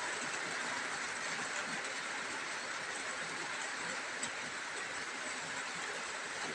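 Steady rain falling, an even hiss with one sharper tick about four seconds in.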